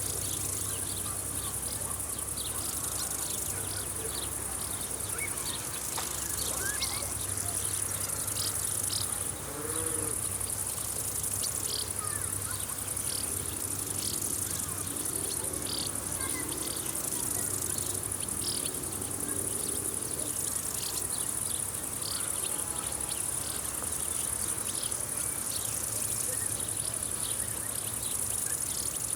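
A chorus of insects chirping in a summer field: a steady high, shrill trill with many short chirps scattered over it.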